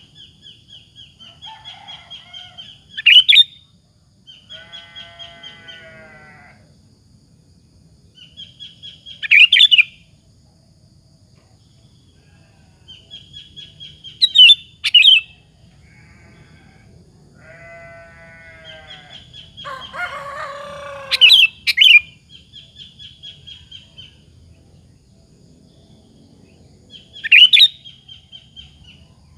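Sooty-headed bulbul (kutilang) singing: runs of quick chirps, each ending in a loud short phrase, five times at roughly six-second intervals. Twice there is a lower, rapidly pulsed call in between.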